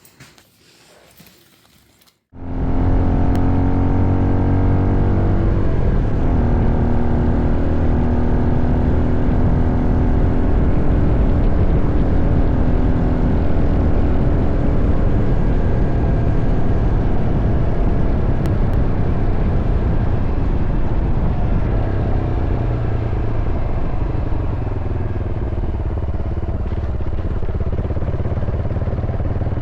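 Honda XR650L's single-cylinder four-stroke engine under way with heavy wind noise, starting abruptly about two seconds in. The engine pitch climbs in steps over the first few seconds as it accelerates, then holds fairly steady.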